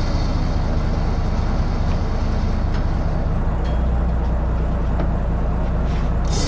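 Truck engine running with a steady low rumble, a few faint clicks over it, and a short burst of hiss right at the end.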